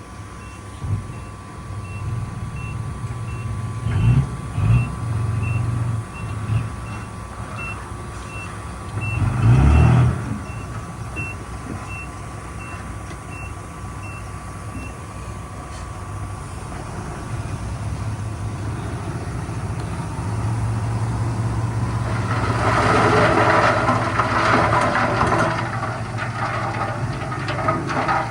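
Heavy machinery reversing alarm beeping steadily over an idling diesel engine for the first half, with the engine surging loudly once near 10 s. From about 22 s a long, loud rattling rush takes over.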